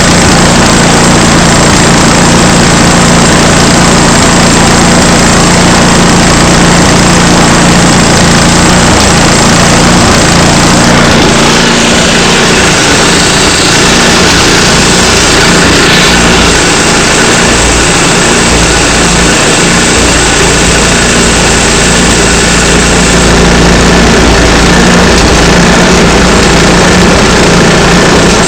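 Band sawmill's gasoline engine running loud and steady, its tone shifting about eleven seconds in.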